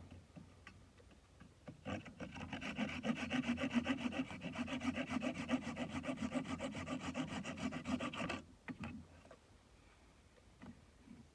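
A hand tool cutting wood in fast, even back-and-forth strokes, such as a saw or rasp. It starts about two seconds in, runs for about six seconds and stops abruptly.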